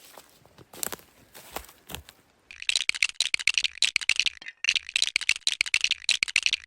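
Rapid clicking and rattling of a tent being pitched, tent poles and fabric being handled. A few single clicks come first, then a dense run of rattling starts about two and a half seconds in.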